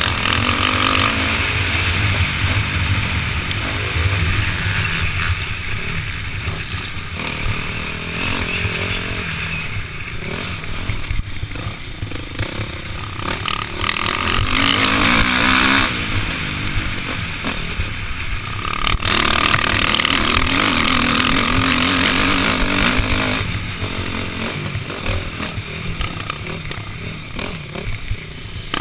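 KTM 505 four-stroke single-cylinder dirt bike engine being ridden hard round a motocross track, the revs rising and falling as the throttle is opened and shut, with louder pulls about halfway through and again a few seconds later.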